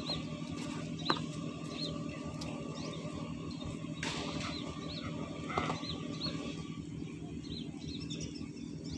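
A small bird repeating a short, high chirp about once or twice a second over a steady low rumble, with one sharp click about a second in.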